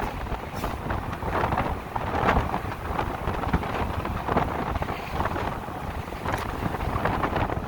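Wind buffeting the microphone of a moving electric motorcycle, an uneven gusty rushing with road noise beneath it and no engine note.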